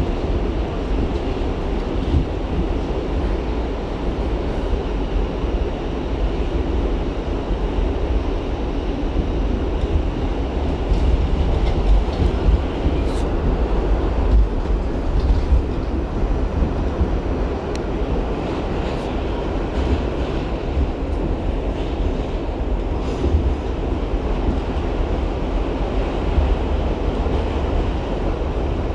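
R68 subway train running on the track: a steady, heavy rumble with scattered sharp clicks from the wheels and rails.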